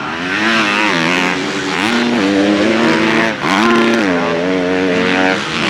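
Motocross bike engine revving hard on the track, its pitch climbing and dropping as the rider works the throttle and gears, with sharp drops about two and three and a half seconds in.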